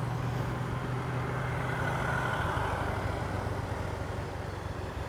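Motorcycle engine running while riding, with wind and road noise; its steady low note changes a little over two seconds in.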